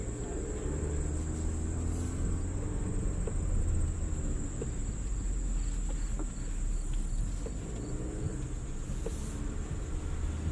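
Jeep Renegade engine running steadily at low revs while the car crawls off-road, a continuous low rumble with a few light knocks. A steady thin high-pitched tone runs over it.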